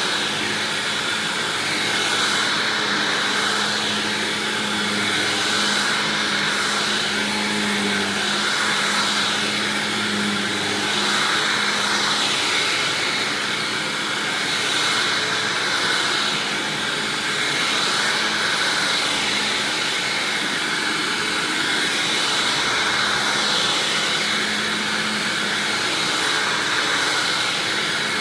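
Hoover WindTunnel Self-Propelled upright vacuum, running on a swapped-in motor from an older Maytag-era WindTunnel, with a steady whooshing whine. Its sound swells and eases gently every couple of seconds.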